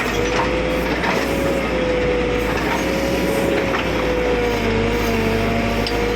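Engine running steadily, with a low hum and a whine that wavers slightly in pitch; a few faint knocks.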